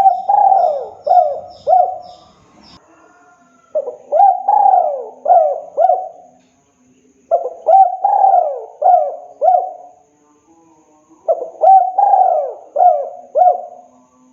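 Spotted dove (tekukur) singing its cooing song: four phrases in a row, each a handful of coos with one longer note near the start, repeated roughly every four seconds.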